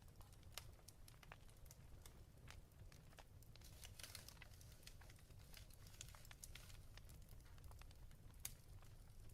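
A wood fire crackling faintly, with irregular sharp pops and snaps over a steady low rumble from the flames.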